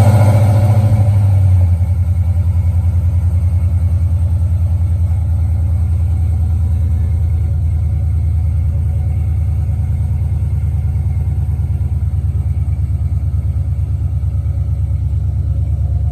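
A 5.3-litre V8 truck engine idling just after a cold start, heard through an X-pipe and dual Flowmaster Super 10 mufflers. It runs loudest for the first couple of seconds, then settles into an even, steady idle.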